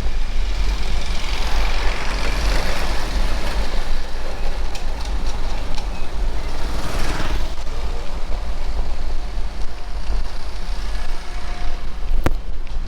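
Street traffic heard from a moving bicycle: vehicles passing, swelling about a second in and again around seven seconds, over a steady low wind rumble on the microphone. A few sharp clicks, the loudest near the end, are audio crackles from radio interference in the camera's unshielded mic adapter.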